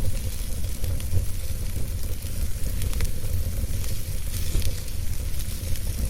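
Wood fire burning, with a steady hiss and deep rumble and scattered sharp crackles.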